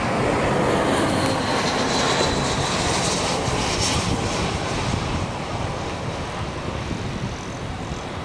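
A Boeing 747's four jet engines at takeoff thrust: a dense roar with a faint high whine, loudest in the first half and growing fainter over the last few seconds as the airliner draws away.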